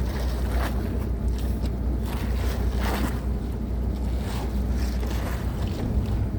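Tour boat's engine running with a steady low drone, with short rushing bursts of water and wind noise over it about once a second.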